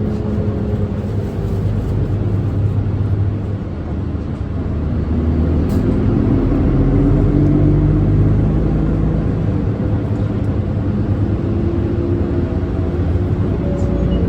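Nissan Diesel Space Runner city bus's diesel engine and running noise heard from inside the cabin as it drives. The engine note rises from about four seconds in, drops back a little after eight seconds, then climbs again near the end.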